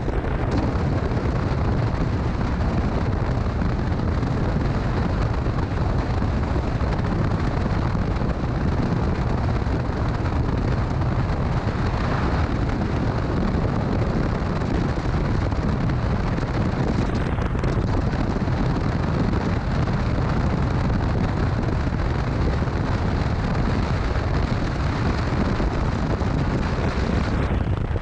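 Motorcycle under way: a steady rush of wind on the microphone mixed with engine and road noise, heaviest at the low end, holding an even level throughout.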